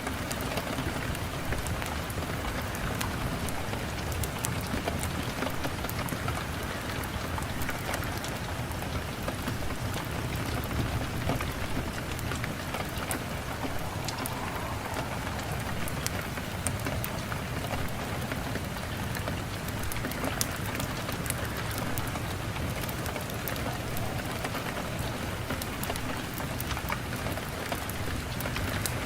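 Steady rain: a constant even hiss with many small, sharp drop ticks scattered through it.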